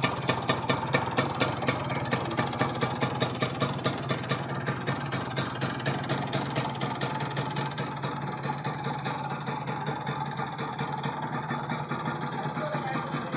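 Kawasaki GTO 125's single-cylinder two-stroke engine running steadily at idle, with an even pulsing beat that is a little stronger in the first few seconds.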